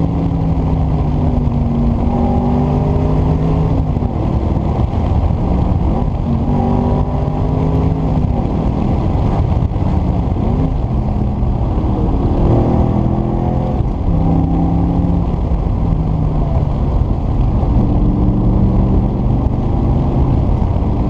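Audi RS4 B7's 4.2-litre V8 with its rear exhaust bypass open, driving along; the engine note holds steady, then climbs and drops in pitch several times as the car accelerates and eases off.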